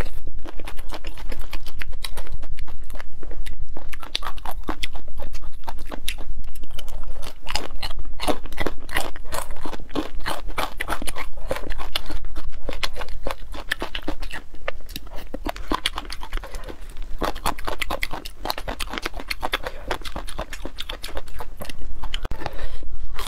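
Close-miked crunchy chewing of crispy fried food, a dense, irregular crackle of crunches that runs on without pause.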